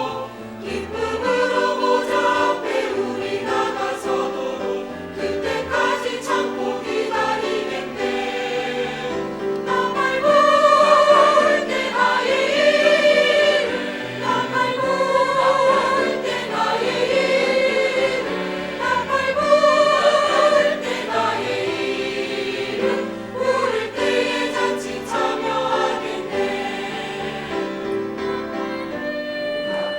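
Gospel hymn sung in a classical style: a tenor voice holding notes with vibrato amid choral singing, swelling loudest twice midway.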